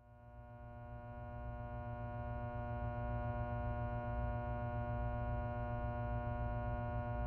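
Synthesized low drone: a pulsing bass hum under a stack of steady higher tones, fading in over the first few seconds and then holding steady.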